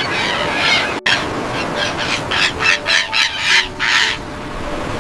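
AI-generated (Veo 3) gull squawks: a string of about eight harsh calls in quick succession, around three a second, ending about four seconds in, followed by a steady hiss. Just after the first second the sound drops out briefly at a cut.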